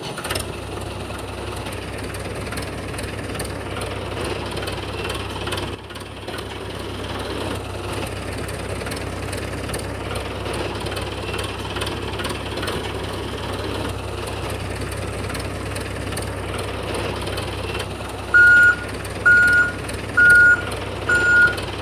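A steady, low vehicle-engine running noise. Near the end, a series of five loud, evenly spaced high beeps about a second apart, like a reversing alarm.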